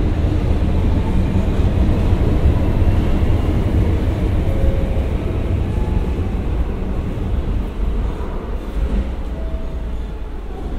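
A train running through the station: a loud, steady low rumble that eases off in the last few seconds.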